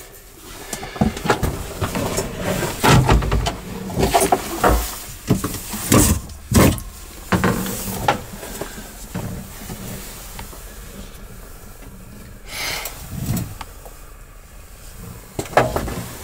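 Handling noise of someone moving about inside an aircraft cabin: irregular knocks, thumps and rustling, densest in the first half, with a short rush of noise about twelve seconds in.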